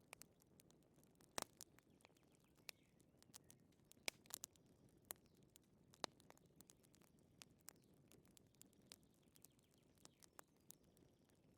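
Faint crackling of a wood fire: irregular sharp pops and snaps, a few louder than the rest, over a soft low hiss.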